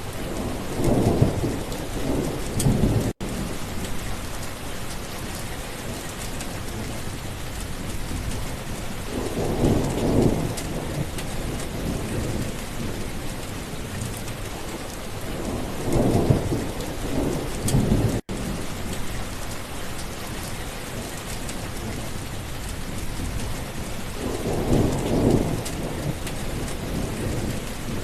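Steady rain falling with thunder rumbling four times, each rumble swelling for a couple of seconds about every seven or eight seconds. The sound cuts out for an instant twice.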